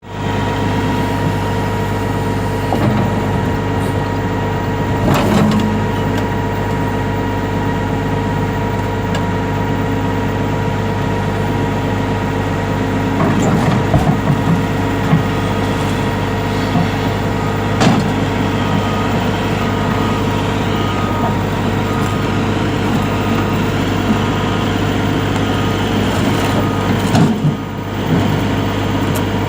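Caterpillar 352F hydraulic excavator's diesel engine running steadily, a low hum with a steady whine over it, with a few knocks and clanks here and there.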